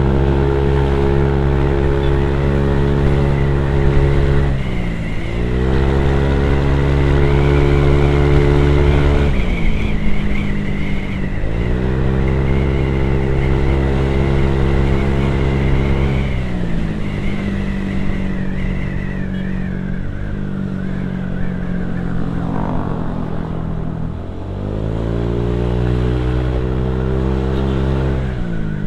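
Motorcycle engine and exhaust under way: the engine note climbs quickly and then holds a steady pitch for several seconds, falls away as the throttle is eased, and climbs again, about four times. Its lowest, steadiest stretch falls in the second half, before a final climb near the end.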